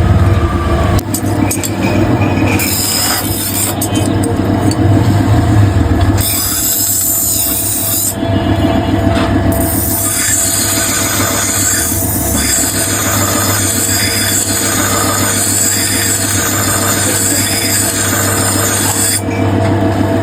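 Steel scissor blade ground against a motor-driven sharpening wheel: a high grinding screech in long stretches, breaking off briefly about eight seconds in, over a steady motor hum.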